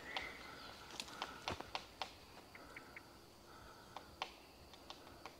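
Faint woodland birdsong: short repeated calls and a few scattered, irregular sharp taps, with a woodpecker among the birds heard.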